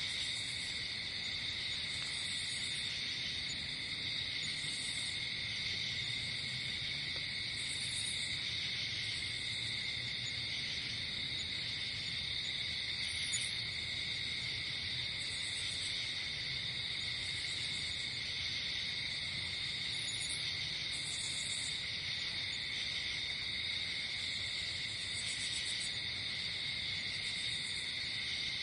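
Night insect chorus: crickets trilling steadily on a couple of constant pitches, with short, very high buzzing chirps from other insects repeating every few seconds.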